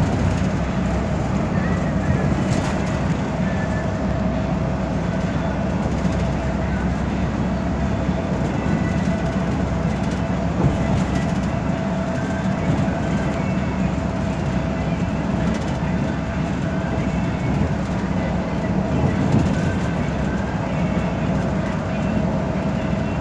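Cabin noise of a metropolitan express bus cruising on an expressway: a steady low rumble of engine and tyres, with a faint steady whine and occasional small rattles and squeaks.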